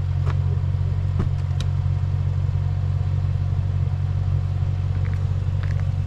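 Car engine running steadily at low revs, a constant low rumble with no revving, with a few faint clicks over it. The engine is most likely the Range Rover Sport SVR's supercharged 5.0-litre V8 with an aftermarket sport exhaust.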